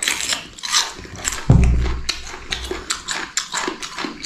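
A man eating noisily close to the microphone: a run of wet slurps and chewing sounds, with a dull thump about one and a half seconds in.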